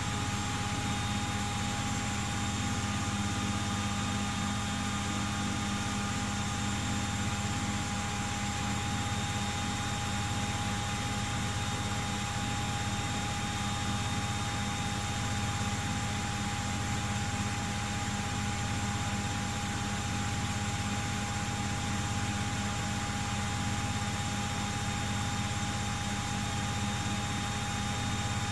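Miele W Classic washing machine running steadily in the suds cool-down and first interim spin stage of a 90 °C cotton cycle: a constant high motor whine over a low hum and a steady hiss, unchanging throughout.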